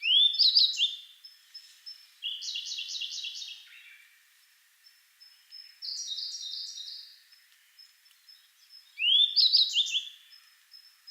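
A subadult grey bunting and a Siberian blue robin singing in turn: four separate song phrases a few seconds apart. Some phrases open with a rising sweep and others are quick runs of repeated notes, over a faint, steady ticking of thin high notes.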